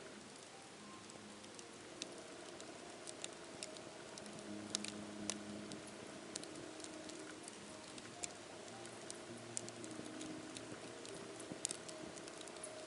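Wood fire crackling: a soft steady hiss with frequent sharp pops and snaps, the loudest around five seconds in and again near the end.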